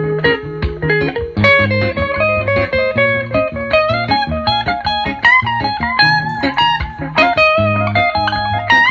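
Telecaster-style electric guitar playing a picked single-note melody line over lower bass notes.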